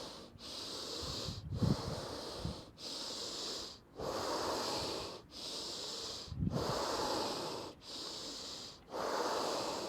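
A man's deep, forceful breaths in and out during Wim Hof–method power breathing, inhales and exhales following each other in a steady rhythm, each about a second long with a brief pause between. Two low bumps come through, a couple of seconds in and again past the middle.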